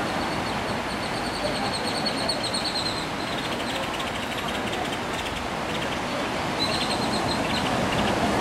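Small birds chirping in rapid high trills, one run through the first few seconds and another near the end, over a steady wash of sea surf.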